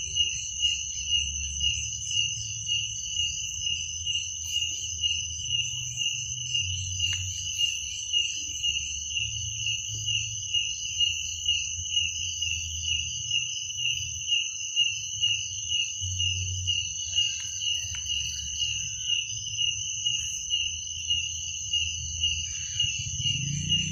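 Crickets chirping in a steady, high trill that pulses about twice a second, with a second, higher insect drone over it and a low hum beneath. A low sound swells in near the end.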